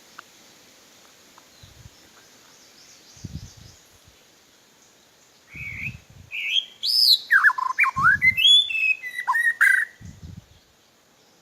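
White-rumped shama singing a run of loud, varied whistled phrases that glide up and down, starting about halfway in. A few short low thumps fall under it.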